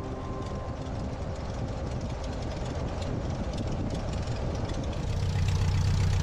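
1941 Aeronca Super Chief's engine and propeller running with a rough, rushing sound, then settling about five seconds in into a louder, steady low drone at low power.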